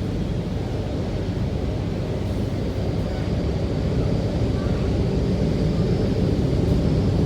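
Rotem-built MTR K-train running, heard inside the car: a steady rumble of wheels and running gear, growing slightly louder toward the end, with a faint high whine coming in about three seconds in.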